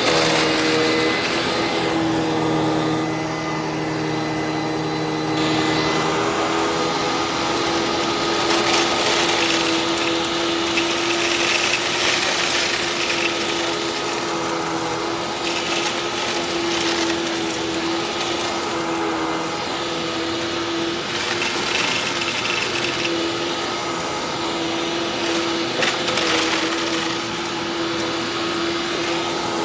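Hoover WindTunnel WidePath upright vacuum cleaner running steadily with an even motor hum, sucking up crunched, dry parrot food. A rougher rush of noise swells and fades every few seconds as debris goes up the nozzle.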